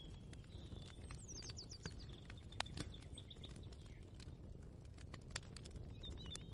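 Faint kitchen ambience: a steady low hum with scattered light clicks and taps, one sharper tick a little over halfway. Small birds chirp in quick bursts twice, once early and again near the end.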